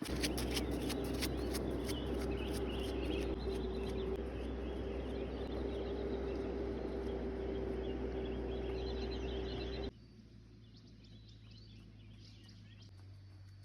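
Steady low hum with a thin held tone over an even noise, with birds chirping faintly on top. The hum stops abruptly about ten seconds in, leaving only faint birdsong.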